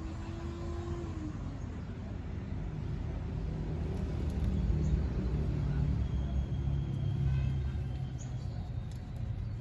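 A low rumble that swells through the middle and eases off near the end, with a faint steady hum that fades out about a second in.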